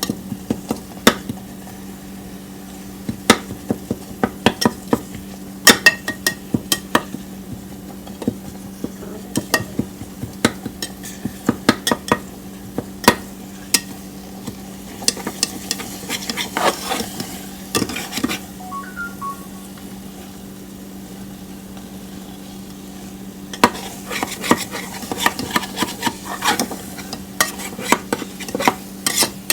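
A spoon stirring food in a cooking pan, knocking and scraping against the pan in irregular clusters of sharp clicks, with a faint sizzle and a steady low hum underneath.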